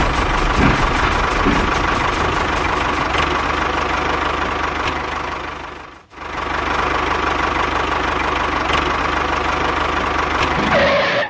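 A small motor running steadily. It drops out briefly about halfway through, then runs on.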